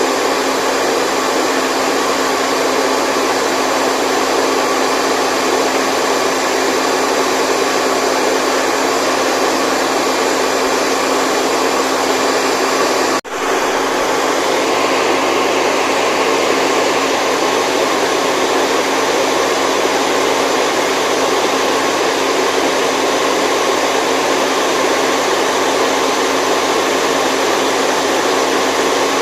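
Steady rushing white noise with a few faint constant hum tones running through it, like an appliance motor. It drops out for an instant about thirteen seconds in, then carries on unchanged.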